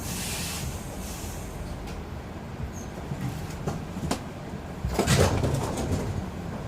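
Inside a RABe 514 commuter train: a steady low rumble with a hiss at the start, scattered sharp clicks, and a louder clattering rush about five seconds in.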